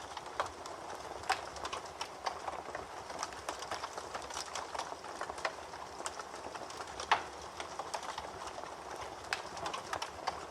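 Wood fire crackling in a fireplace: irregular small pops and snaps over a soft steady hiss, with one louder pop about seven seconds in.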